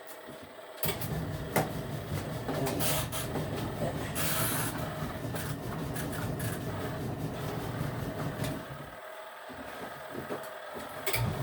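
Portable washing machine's motor running its wash agitator, churning water and clothes with a steady low hum; it stops near the end and starts again just before the end. A few sharp knocks and a short hiss sit over it.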